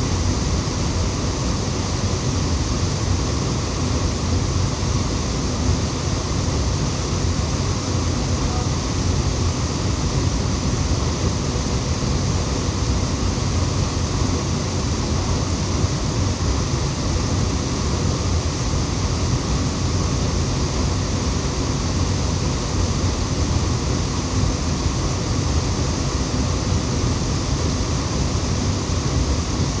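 Waterfall rushing, a loud, steady noise of falling water that does not change.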